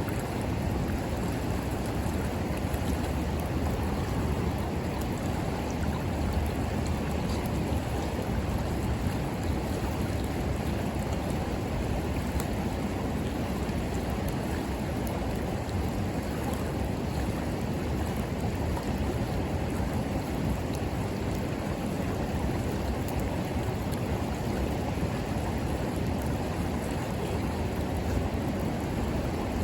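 River water flowing steadily, with faint scattered crackles from a wood bonfire burning on the bank.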